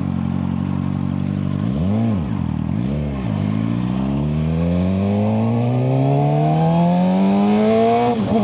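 Suzuki GSX-R600 inline-four sport bike engine under way: two quick rises and falls in revs, then a long steady climb in pitch under hard acceleration, dropping briefly at a gear change near the end. The revs climb with the road speed and do not flare, as the newly replaced clutch now holds under heavy load instead of slipping.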